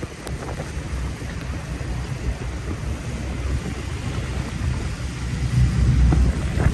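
City street ambience in a snowstorm: a low rumble of wind on the microphone mixed with passing traffic, swelling louder about five and a half seconds in.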